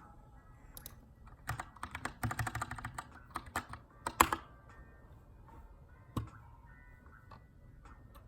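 Keychron K2 mechanical keyboard with brown switches being typed on: a quick run of keystrokes starting about a second and a half in, the loudest stroke near the end of the run, then a single click about six seconds in.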